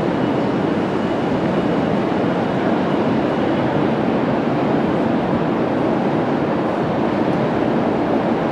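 Chicago CTA rapid-transit train running by: a steady rush of wheels on the rails, with a faint high whine that fades out about four seconds in.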